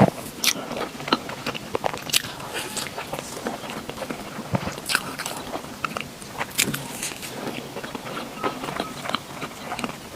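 Biting and chewing food, with irregular sharp clicks and crackles of mouth and food sounds.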